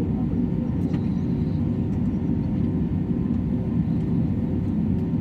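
Airbus A320neo in the climb: a steady, dense low rumble of engine and airflow noise, holding level throughout.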